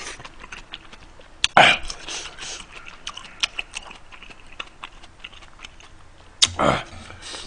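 A person chewing food close to the microphone, with many small wet mouth clicks. Two short, louder mouth sounds stand out, one about a second and a half in, falling in pitch, and another near the end.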